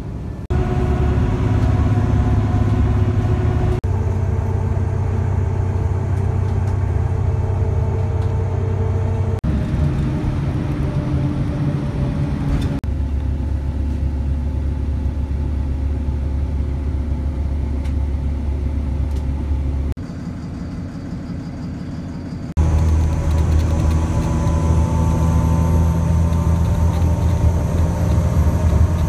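Steady engine noise in a string of abruptly cut segments, each with a low humming drone; one shorter, quieter stretch comes about two-thirds of the way through.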